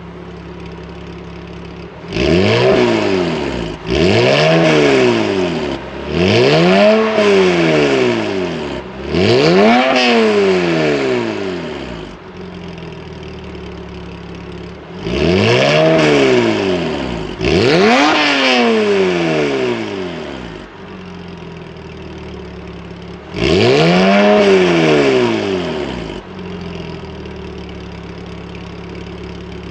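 Porsche Boxster S flat-six through a loud Capristo aftermarket exhaust, idling and being revved in seven blips, each rising and falling back to idle over two to three seconds.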